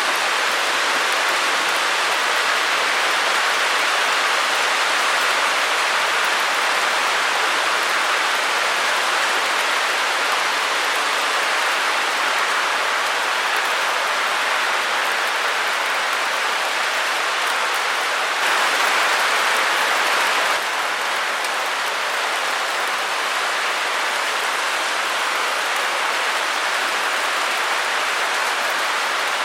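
Steady white noise, an even hiss with little bass, that swells slightly for about two seconds a little past the middle.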